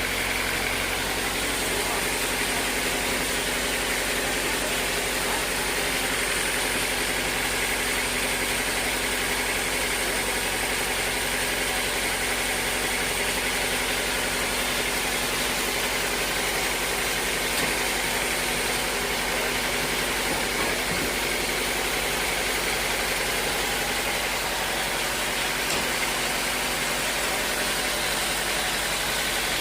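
Sawmill machinery running steadily, an even mechanical drone without pauses or changes.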